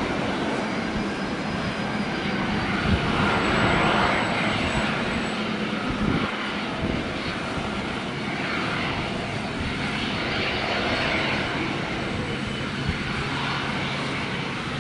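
Boeing 777 jet engines at takeoff thrust during a departure: a steady wide noise with faint tones running through it, a little louder about four seconds in.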